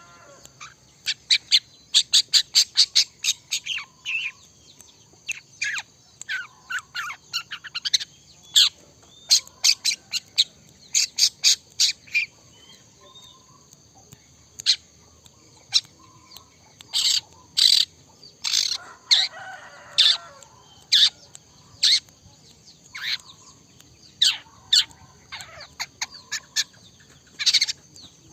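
Long-tailed shrike singing energetically: rapid runs of sharp, quick chips and harsher notes in clusters, with short pauses between bouts.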